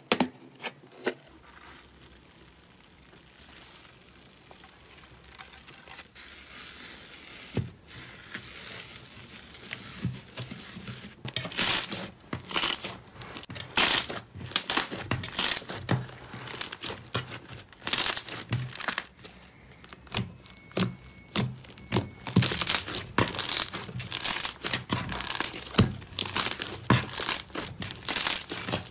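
Hands working slime: faint at first, then from about eleven seconds in a dense, irregular run of sharp clicks and pops as the slime is pressed and pulled.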